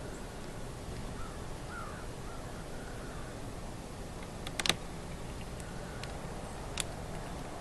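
Outdoor ambience with faint bird calls early on and a short cluster of sharp clicks or harsh calls about two-thirds of the way through, then one more click near the end.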